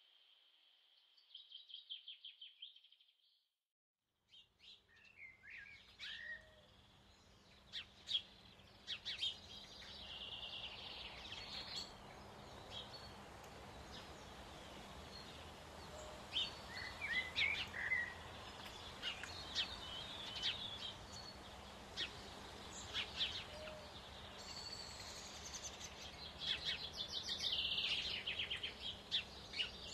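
Songbirds chirping and trilling over a steady background hiss, as in a natural outdoor ambience. A steady high trill opens, then the sound cuts to dead silence for a moment about three and a half seconds in before the birdsong resumes.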